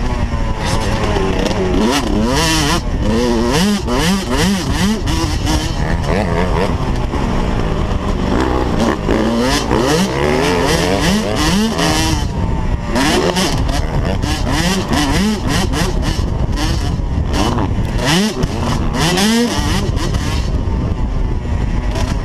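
Motocross bike engine revving hard and easing off over and over as it is ridden, its pitch climbing and dropping many times, with a steady low rumble underneath.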